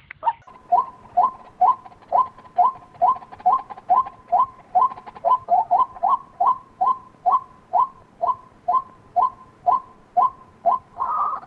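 White-breasted waterhen calling: short two-pitched "kwak" notes repeated at about two a second. Right at the end the calls become louder and run together.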